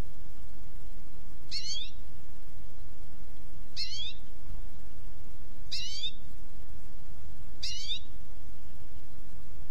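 A bird calling four times, about two seconds apart, each call short and high with a sweeping pitch, over steady low background noise.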